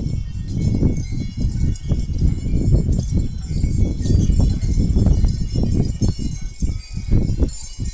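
Outdoor ambience: a strong, irregular low rumble with faint high tinkling above it.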